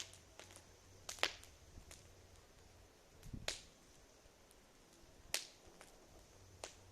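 Wood fire popping: a few sharp, isolated cracks a second or two apart over a faint low hum.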